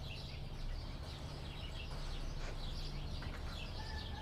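Small birds chirping, a dense run of short high chirps, over a low steady hum that fades out about three seconds in. Near the end a brief held call sounds once.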